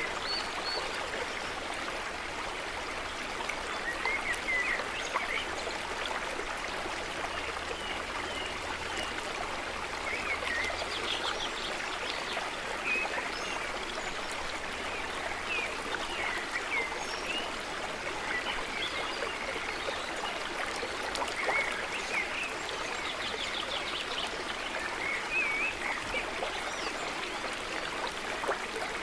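Stream of water running and trickling steadily, with small birds chirping and calling in short scattered phrases throughout.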